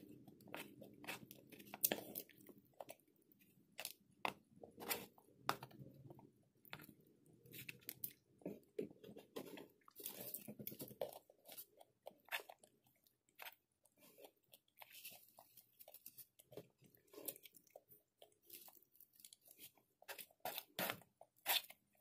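Close-up mouth sounds of a person chewing a macaroni and steamed-vegetable salad dressed with mayonnaise, with irregular crisp clicks and crunches.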